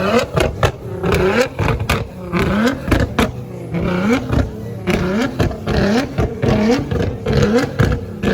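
A car engine revved over and over in quick blips, each a short rising whine, coming roughly every half second to a second.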